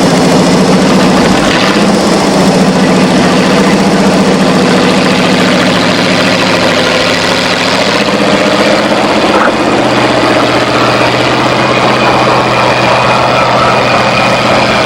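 Ford 8N tractor fitted with a flathead V8 engine, running loud and steady while pulling at a tractor pull. Its engine note shifts between about seven and nine seconds in, then settles lower.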